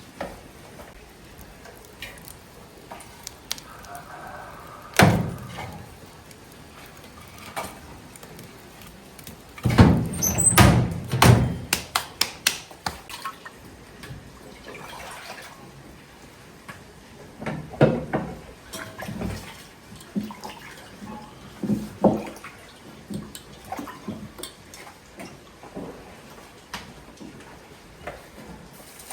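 Scattered knocks and clatter of objects being handled, with a quick run of knocks about ten seconds in.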